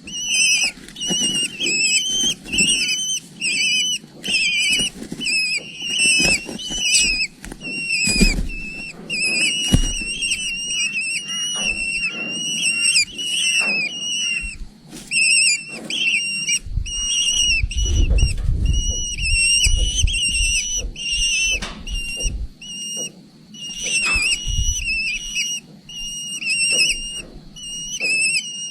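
Eagle chicks begging: a near-continuous run of short, high-pitched whistling peeps, several a second, with low rumbling thumps around the middle.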